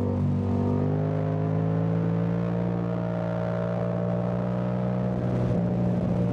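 Yamaha Tracer 7's 689 cc CP2 parallel-twin engine running under way, its exhaust note breaking briefly just after the start and then climbing slowly in revs before levelling off.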